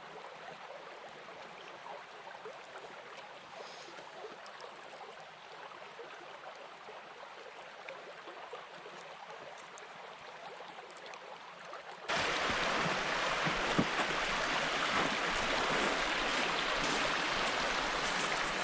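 Creek water flowing steadily. About twelve seconds in, the sound cuts abruptly to a much louder, steady rushing noise with a few clicks.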